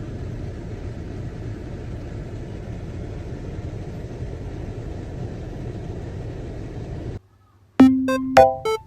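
A steady low rumbling noise that cuts off suddenly about seven seconds in, followed near the end by a few bouncy, plucked musical notes.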